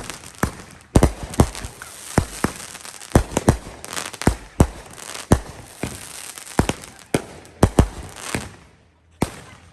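Fireworks going off in rapid, irregular succession: sharp bangs, often one or two a second, with crackling between them and a brief lull near the end.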